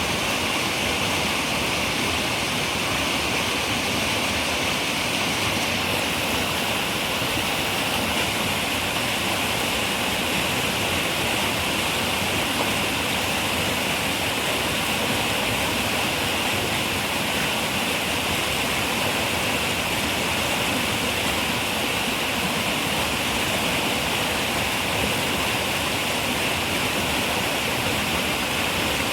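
A river running steadily, an even rush of flowing water with no breaks.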